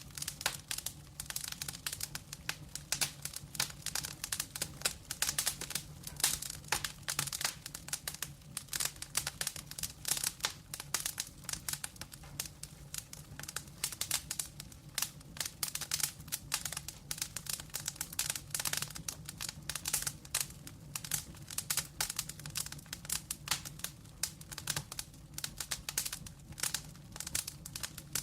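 Wood fire crackling: many sharp irregular pops and snaps from burning logs, over a steady low hum.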